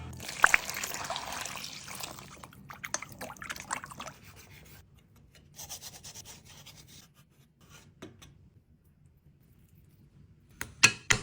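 Food-preparation noises: rubbing and scraping that thins out into scattered clicks, then a quiet stretch, and a quick run of sharp knocks near the end.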